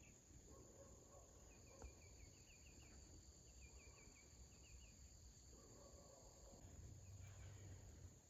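Faint outdoor rural ambience: quick runs of four or five high chirps repeating every second or two over a steady faint high hum.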